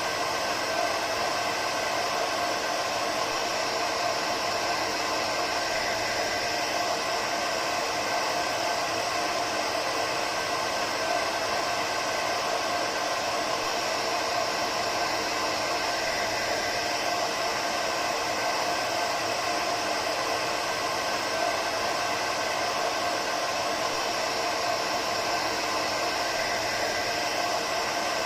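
Hair dryer running steadily: an even whooshing of blown air with a faint steady motor whine, unchanging throughout.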